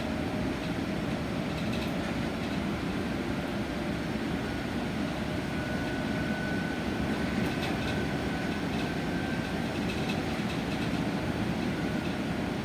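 Cabin noise of an electric bus under way: a steady low rumble of tyres and road, with a faint high whine from about five to nine seconds in.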